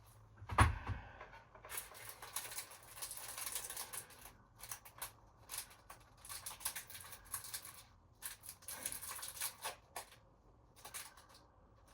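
Rummaging and rustling in several short bursts of a second or two, with a single sharp knock about half a second in.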